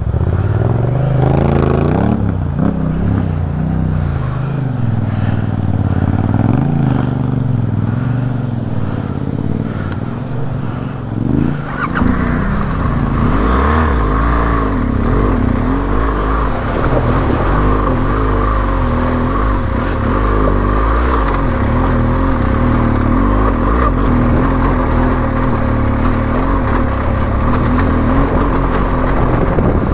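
Adventure motorcycle engine under way, revs rising and falling as it pulls. From about twelve seconds in the engine holds a steadier note and a steady rushing noise joins it.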